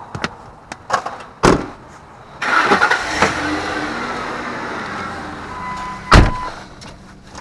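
A vehicle being got into. There are clicks and knocks from the door and handles, then an engine starts about two seconds in and runs steadily, and a car door slams loudly near the end.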